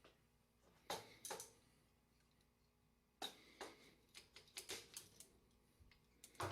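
Faint sharp clicks and light knocks of metal tools and parts being handled while a Columbia automatic taper is taken apart. Two clicks about a second in, then a quicker run of clicks in the second half.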